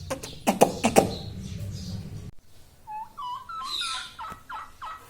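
Pet parrot making a few sharp clicks, then a run of short, soft chirps and little whistled notes.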